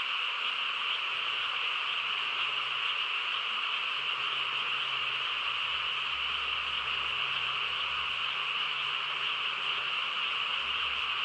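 Dense chorus of many frogs calling at once, a steady unbroken wall of calls with no single voice standing out.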